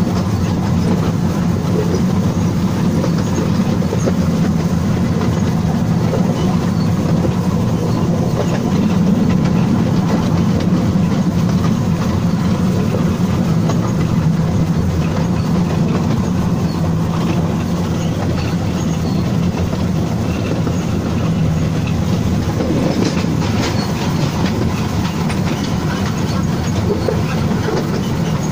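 Wulai narrow-gauge tourist train running along the track: a steady rumble of wheels on rails with clacking over the rail joints and sharper clicks near the end.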